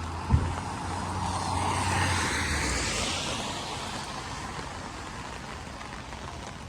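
A vehicle passing on a rain-soaked street: the hiss of tyres on wet pavement swells to a peak about two seconds in and slowly fades, over a low engine hum. A dull thump comes just after the start.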